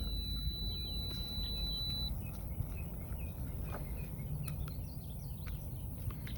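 Birds chirping in short calls over a steady low rumble; a thin, steady high-pitched tone stops about two seconds in.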